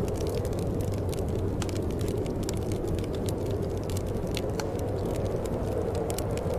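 Wood fire in a fireplace crackling: many small, sharp pops at irregular intervals over a steady low rumble.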